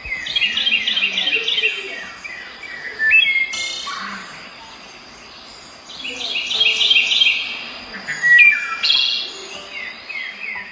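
Birds chirping in quick runs of repeated high notes, in two bouts, with a short hiss between them.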